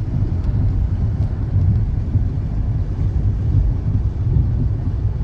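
Low, continuous rumble of a vehicle's engine on the move, with wind on the microphone.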